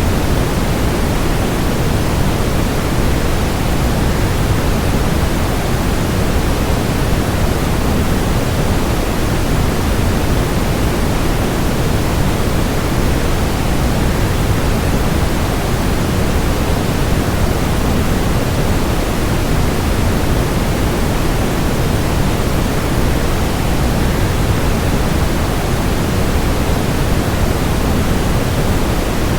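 Steady, unchanging rushing noise, heaviest in the low end and thinner toward the highs: a waterfall's roar blended with white noise for relaxation.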